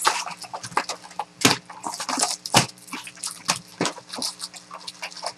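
Trading-card boxes and foil pack wrappers being torn open and handled: irregular crinkling and ripping with a few sharper snaps.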